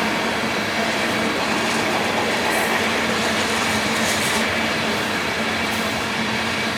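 Freight train of ethanol tank cars rolling past at speed: a steady, continuous rumble and clatter of wheels on rail, with brief faint high squeals from the wheels about two and a half and four seconds in.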